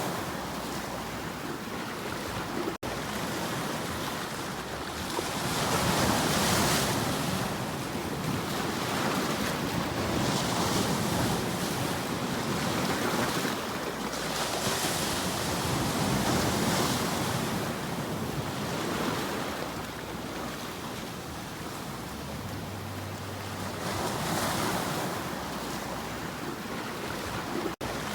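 Ocean waves washing ashore, the surf swelling and receding every few seconds, with a little wind.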